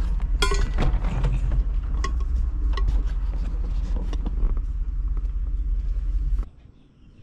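Steady low rumble of a vehicle on the move, heard from inside the cabin, with scattered clicks and rattles. It cuts off abruptly near the end, leaving quiet outdoor background.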